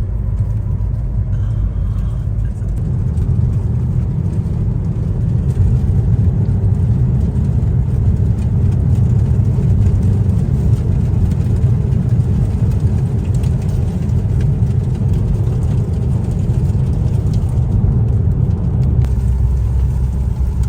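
Car driving along a road: a steady low rumble of engine and tyre noise heard from inside the cabin.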